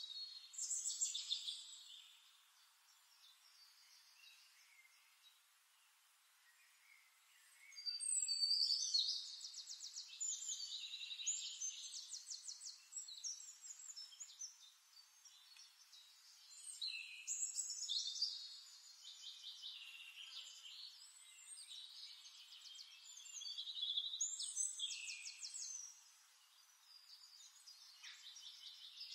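Bird song: several long phrases of fast, high trills with quieter pauses between them.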